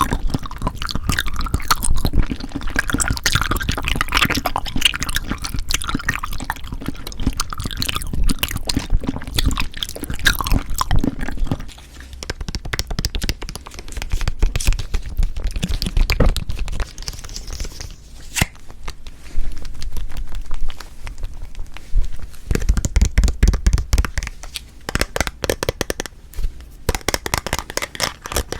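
Close-miked chewing of Cheonhyehyang citrus cup jelly: a dense run of small mouth clicks, softer for a while in the middle.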